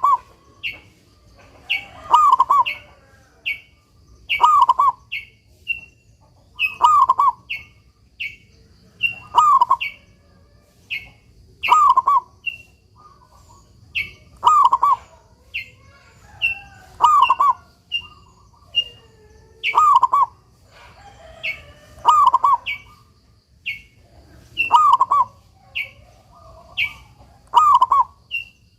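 Zebra dove (perkutut) cooing over and over, one call about every two and a half seconds. Short, high chirps from another bird come quickly in between.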